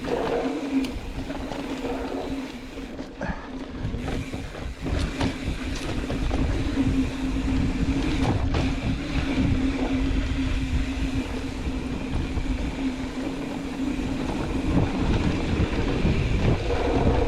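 Mountain bike descending a dirt and rock trail: tyres rolling and bike rattling over rough ground, with many small knocks and a steady low buzz.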